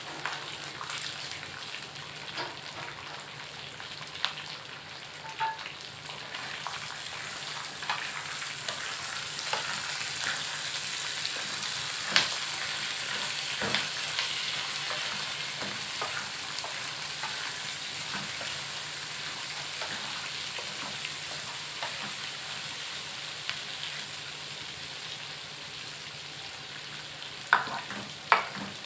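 Peanuts and sliced garlic frying in a pan, a steady sizzle, while a wooden spatula stirs and scrapes them. Sharp clicks of the spatula against the pan come now and then, the loudest about halfway through and again near the end.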